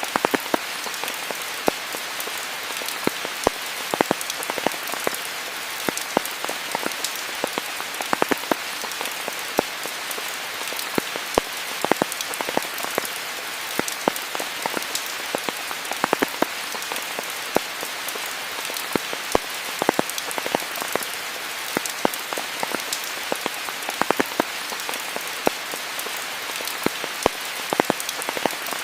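Steady rain falling, an even hiss scattered with many sharp ticks of individual drops striking close by.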